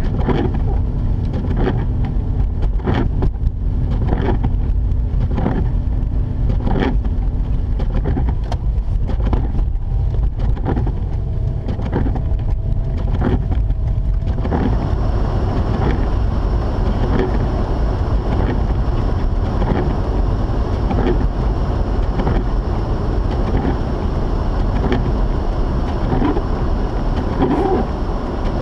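Mazda RX-8 with its rotary engine driving on a snowy road: a steady low rumble of engine and road, with repeated short knocks. About halfway through a louder hiss joins in.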